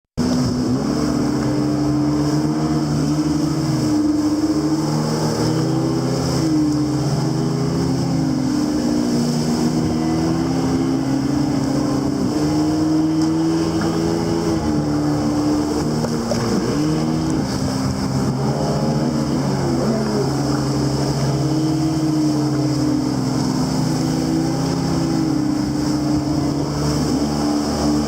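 Jet ski engine running throughout, its pitch going up and down as the throttle is opened and eased off.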